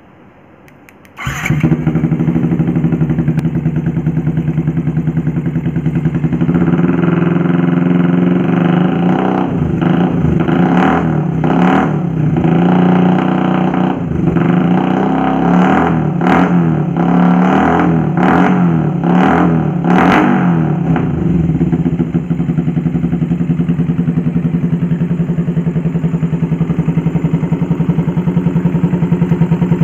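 Yamaha Vixion's single-cylinder four-stroke engine through an aftermarket cobra-style left-side exhaust, starting about a second in and idling, then revved in a string of quick throttle blips before settling back to a steady idle.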